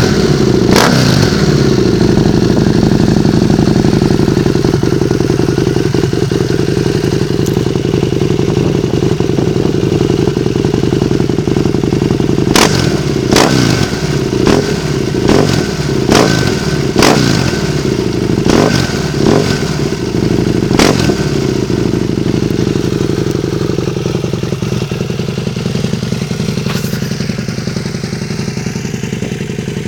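Husqvarna Nuda 900 parallel-twin engine idling through an MSR exhaust. About a third of the way in it is given a series of about nine quick throttle blips, each rev sharp and falling straight back to idle, before it settles to a steady idle again.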